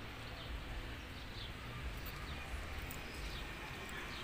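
Short, falling bird chirps repeating about once a second over a low steady rumble of outdoor street ambience.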